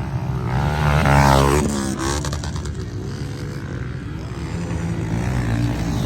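Motocross dirt bike engines on the track, one revving hard with its pitch climbing and falling about a second in, then lower engine drone from bikes further off.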